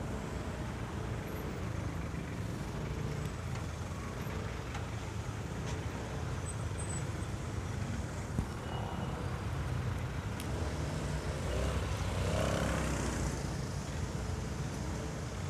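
Road traffic heard from a moving motorcycle: a steady low rumble of engine and wind, swelling louder for a moment near the end.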